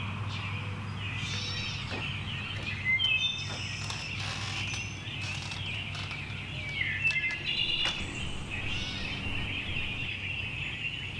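Birds chirping and calling in short, scattered phrases over a steady low hum.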